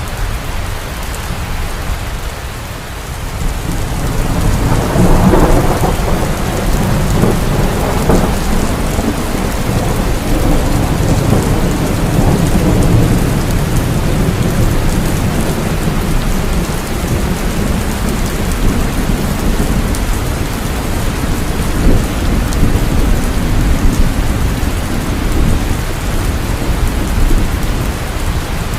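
Heavy rain falling steadily with thunder rumbling low underneath; a roll of thunder swells up about four to five seconds in and rumbles on.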